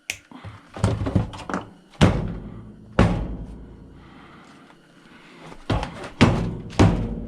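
Sharp knocks and thuds on the metal body of a chop saw being taken apart, about six unevenly spaced hits, each ringing out briefly.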